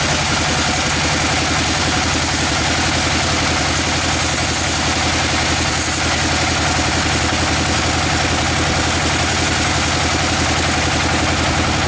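Sawmill machinery running steadily: a constant engine-like drone with a loud hiss over it, without a break.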